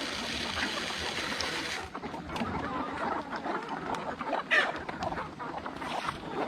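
Chickens clucking with short scattered calls, one louder call past the middle. A steady hiss underneath cuts off about two seconds in.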